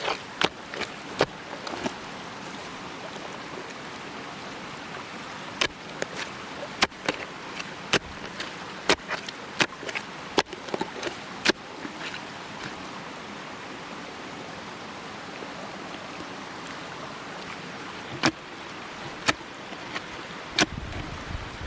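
Sharp knocks and clicks at irregular intervals over a steady rushing hiss. The knocks come thickly through the first part, thin out in the middle, and return a few times near the end.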